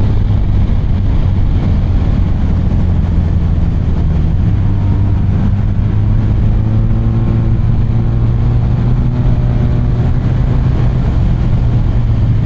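BMW R 1250 RT motorcycle's boxer-twin engine running steadily under way, mixed with wind rush on the onboard microphone.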